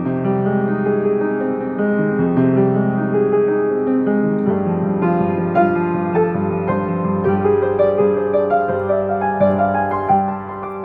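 Piano playing a slow melody over sustained chords.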